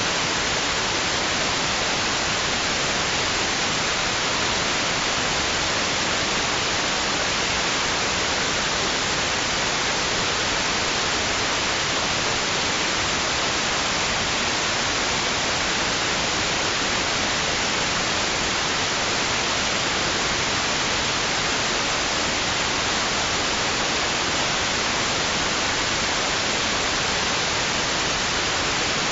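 Steady white noise: an even, unchanging hiss with no rise and fall, played as a sleep aid for babies.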